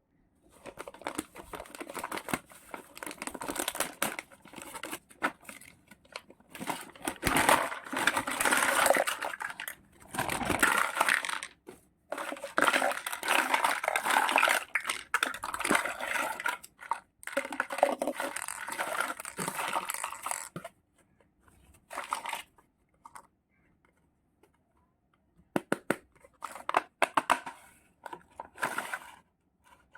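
Packaging crinkling and tearing as a miniature toy kitchen set is unboxed, in long rustling stretches that pause about two-thirds through and return as shorter bursts near the end.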